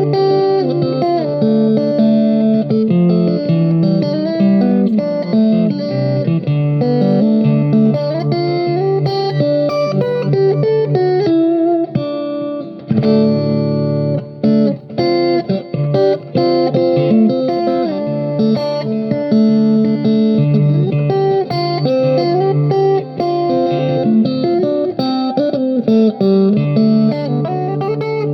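Guitar music: plucked guitar notes played continuously, with a brief pause about twelve seconds in.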